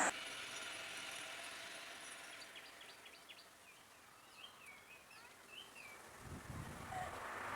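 Faint outdoor ambience with a few small birds chirping and calling in short bursts in the middle. Near the end a low rumble starts to build and grows louder.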